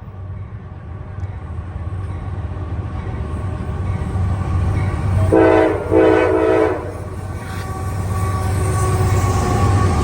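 CSX diesel freight locomotive approaching, its air horn sounding twice about five seconds in, a short blast then a longer one, over a steady low engine and rail rumble that grows louder.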